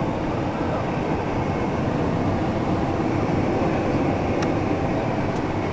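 Steady, even rumble of aircraft noise heard inside a Boeing 757's cockpit, with a couple of faint clicks near the end.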